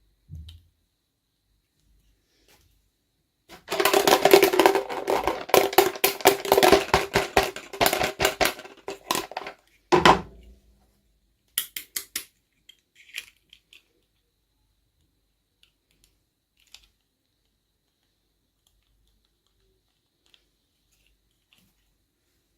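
Small plastic toy pieces and packaging being handled: a run of quick rattling and clicking for several seconds, then a single knock, followed by a few light clicks.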